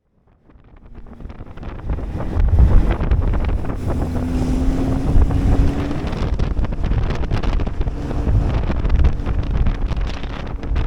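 Strong wind buffeting the microphone, a loud rough rumble that builds up over the first couple of seconds, with a short steady low hum partway through.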